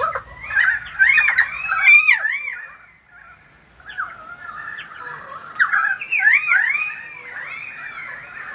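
Pied currawong singing: a run of warbling, gliding whistled notes that breaks off briefly about three seconds in and starts again a couple of seconds later.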